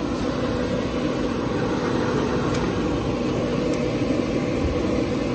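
Master 40,000–60,000 BTU forced-air propane heater running steadily, its fan and burner giving an even rushing noise with a constant hum. It keeps running after its switch has been turned, since it has to be unplugged to stop.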